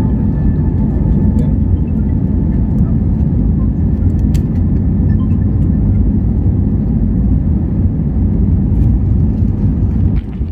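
Airbus A320neo's engines and airflow heard as a loud, steady low rumble inside the cabin. A faint high hum fades out in the first couple of seconds, a few light clicks and rattles sound through it, and the level drops slightly just before the end.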